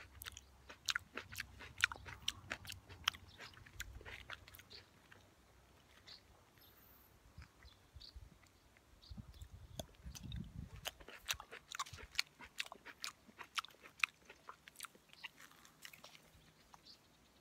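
A person chewing cherry plums close to the microphone: irregular mouth clicks and crunches, thinning out for several seconds in the middle. A brief low rumble comes about ten seconds in.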